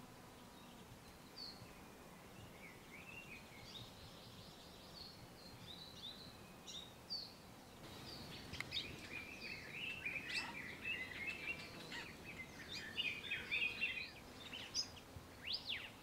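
Forest songbirds calling: scattered short chirps and whistles, turning into a busier run of twittering song about halfway through, with a few sharp notes near the end.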